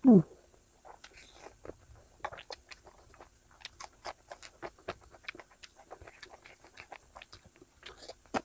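Close-miked chewing with small wet mouth clicks and lip smacks as a person eats biryani by hand, irregular and fairly quiet. Right at the start a short, loud sound slides sharply down in pitch; it is the loudest thing heard.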